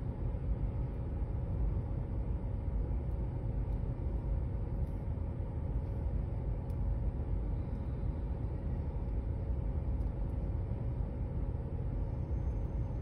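Freight train rolling through a grade crossing, heard from inside a stopped car as a steady low rumble.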